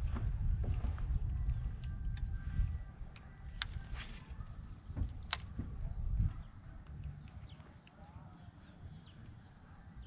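Steady high drone of insects with short high chirps repeating about once a second. Under it is a low rumble in the first six seconds or so, and a few sharp clicks in the middle.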